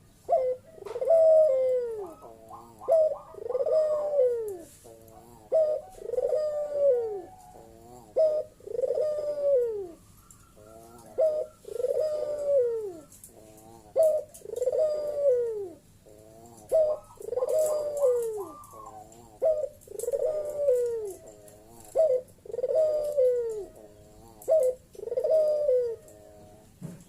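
A puter (Barbary) dove cooing over and over in its loud, carrying bekur call, each phrase a falling coo repeated every second and a half or so. This is the lure call that draws a rival dove.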